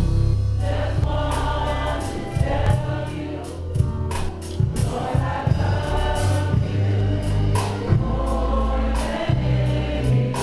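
Gospel music: a choir singing over bass and drums.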